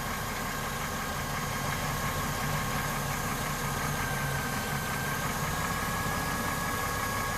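A steady mechanical hum like a running engine, with two thin steady whining tones above it and no changes or impacts.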